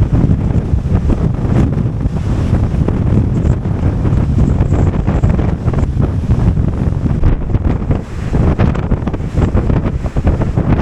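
Storm-force wind buffeting the microphone in heavy irregular gusts, over the wash of rough surf.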